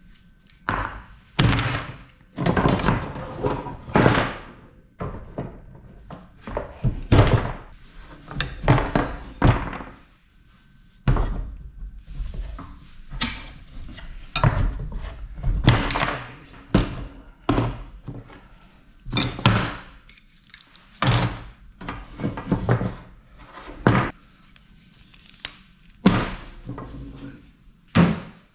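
Scrap copper pieces from AC units being handled and tossed into a pile: a long series of irregular clunks and short rattles, some louder than others.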